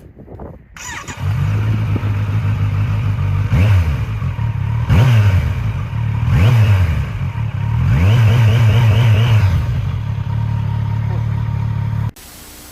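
2021 Kawasaki Z900's inline-four engine through a replica Akrapovic titanium exhaust, starting up about a second in and idling. The throttle is blipped three times, then held in a longer rev before the engine drops back to idle.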